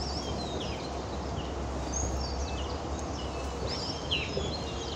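Small birds chirping in the trees, many short notes that slide downward, scattered throughout. Underneath is a steady low hum of city background noise.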